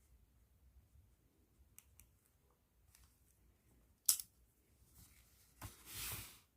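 Close-up handling sounds of a pen in a plastic bag: faint scattered ticks, one sharp click about four seconds in, then a short scratchy rustle near the end.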